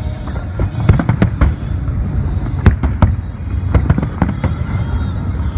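Aerial fireworks bursting in rapid succession: many sharp bangs, in clusters, over a continuous low rumble of booms.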